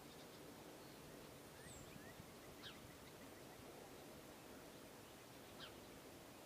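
Faint bird calls over a steady low hiss: a few short high chirps, then two brief downward-sweeping calls, one about two and a half seconds in and one near the end.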